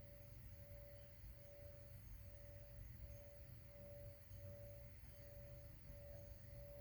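Faint sustained single tone, pulsing gently a little more than once a second, over a low steady rumble.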